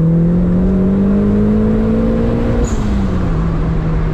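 Turbocharged car engine heard from inside the cabin, pulling under acceleration with its pitch rising steadily. About two and a half seconds in the revs drop off with a brief high chirp, then the engine runs on steadily at lower revs.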